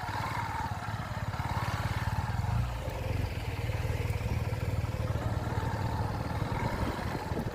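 Motorcycle engine running steadily, with a rapid low pulsing and a rushing noise over it.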